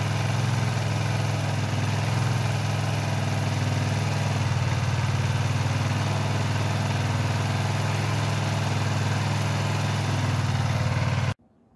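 Craftsman garden tractor's engine running steadily, newly brought back to life after a carburetor clean-out and fresh fuel; it cuts off suddenly near the end.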